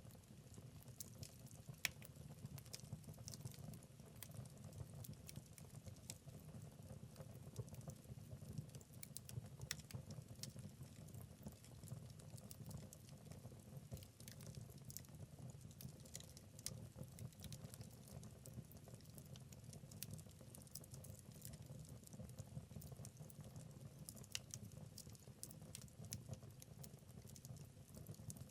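Wood fire crackling in a fireplace: irregular sharp pops and snaps over a low, steady rumble of burning, with one louder pop about two seconds in.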